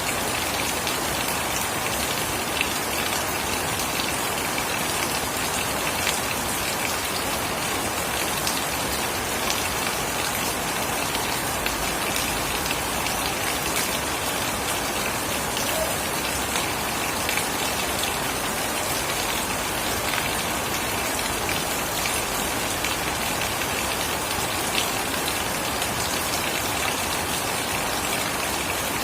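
Steady rain falling on surfaces, an even hiss with scattered individual drop taps.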